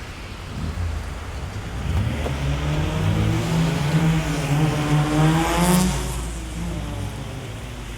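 A car driving past on a rain-soaked street, its engine note swelling for a few seconds, peaking about five seconds in, then fading, over steady rain hiss.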